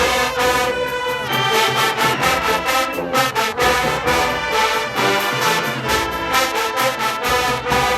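HBCU show-style marching band playing loud brass music, full horn section over a drumline keeping a steady driving beat.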